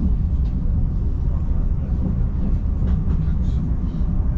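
Frecciarossa ETR 500 high-speed train in motion, a steady low rumble heard inside the passenger coach, with a few faint clicks a few seconds in.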